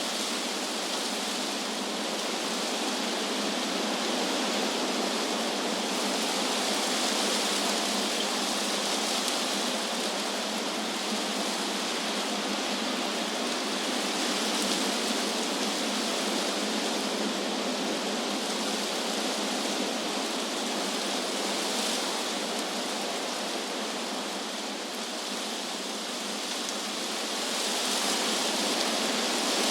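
Wind blowing through trees, a steady rustle of leaves whose upper hiss swells and eases slowly every several seconds.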